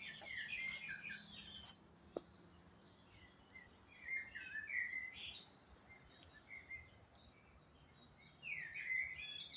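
Woodland songbirds singing, with bright warbling phrases a few seconds apart over a faint background hum.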